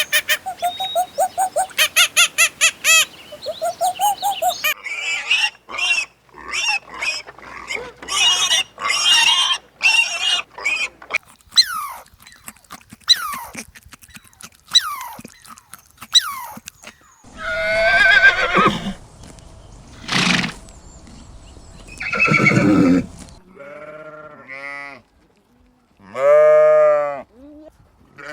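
A succession of different farm animal calls. Fast clicking with short pitched calls comes first. Separate calls follow, with several long, strongly pitched calls in the second half.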